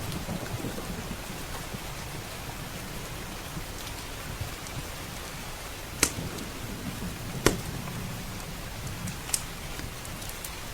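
Steady heavy rain with a few sharp pops from a crackling wood fire, the loudest two about six and seven and a half seconds in.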